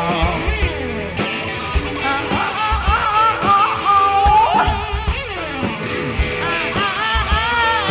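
Live pop-rock band playing an instrumental passage: a lead electric guitar bends and holds notes with vibrato over bass, drums and percussion.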